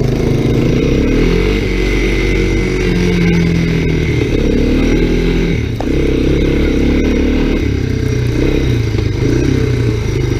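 Honda ATC three-wheeler engine running under way through snow, its engine speed rising and easing off, with a short drop in revs about six seconds in.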